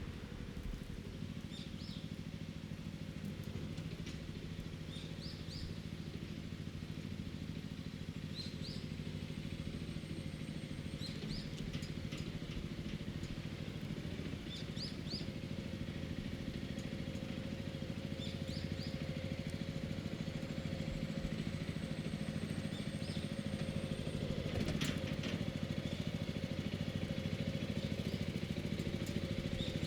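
A motor engine drones steadily at a constant pitch and grows slightly louder toward the end. Over it, a bird repeats a short high chirp every two to three seconds.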